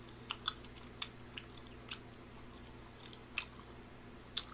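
Chewing close to a microphone: scattered small wet mouth clicks and smacks, irregularly spaced, over a faint steady low hum.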